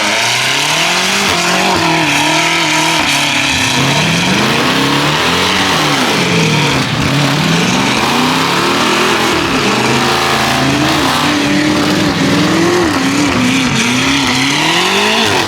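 Car engine revving up and down over and over above a steady loud hiss of tire noise, as from a car spinning its tires.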